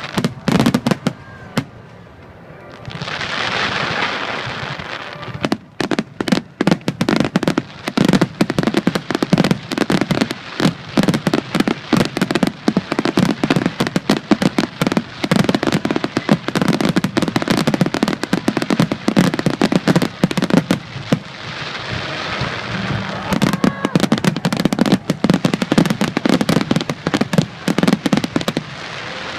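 Aerial fireworks in a finale barrage. A few separate bangs come first, then from about six seconds in shells burst in rapid, nearly continuous succession with loud cracking reports.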